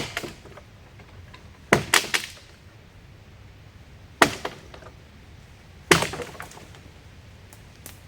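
Sharp knocks of wood being struck, five blows at uneven intervals, two of them in quick succession about two seconds in, each dying away quickly.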